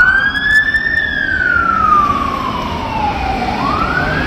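Emergency vehicle siren in wail mode. The pitch peaks about a second in, falls slowly for about two and a half seconds, then climbs quickly again near the end, over a low engine rumble.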